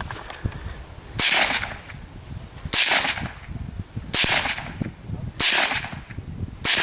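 .22 LR rifle shots, five of them at a steady pace about one and a half seconds apart, fired at targets during a timed run-and-gun stage.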